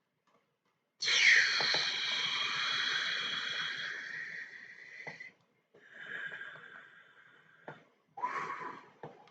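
A person's breathy wheezing sounds: one long hissy breath starting about a second in with a falling pitch, then two shorter ones.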